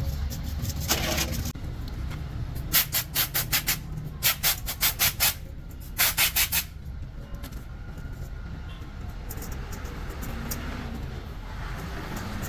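Quick scraping strokes, about six a second, in three short runs, over a steady low hum.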